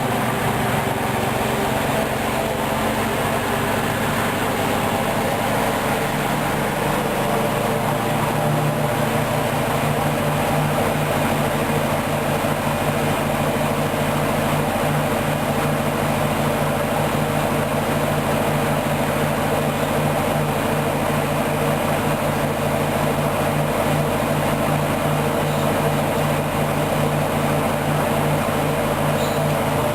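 Hoover DYN 10124 DP washing machine spinning its drum at a steady high speed in the intermediate spin after the first rinse: an even motor hum with a steady whine.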